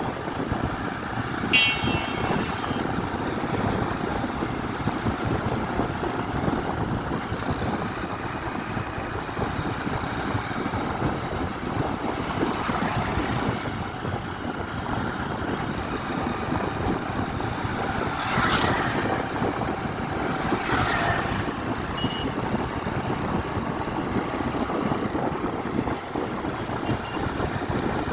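Steady highway traffic and wind noise, with vehicles whooshing past three times in the second half. A short high-pitched beep sounds about a second and a half in.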